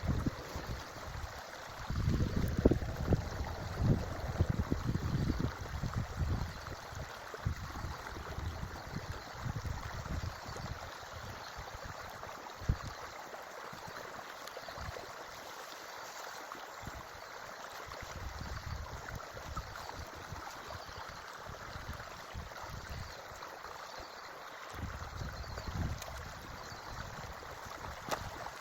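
Forest creek water running steadily as an even rushing hiss. Low rumbles come and go from about two to six seconds in and again near the end, with a single sharp click about halfway through.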